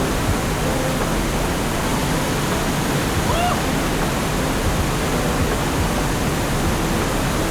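Steady rush of hot-spring water pouring into a pool, an even, unbroken noise. A faint brief chirp about three and a half seconds in.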